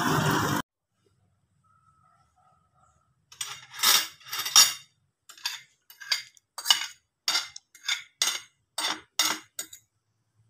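Vehicle and road noise cuts off abruptly less than a second in. After a short silence comes a run of about fourteen sharp clinks or taps, each ringing briefly, irregularly spaced about two or three a second.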